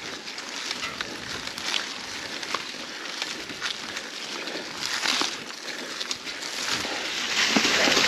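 Mountain bike riding up a leaf-covered trail: the tyres crackle and rustle over dry fallen leaves and rocks, with scattered clicks and knocks, getting louder near the end.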